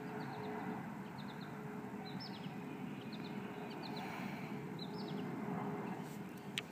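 Small birds chirping in short groups of quick high notes, repeating about once a second, over a steady low background hiss; a sharp click near the end.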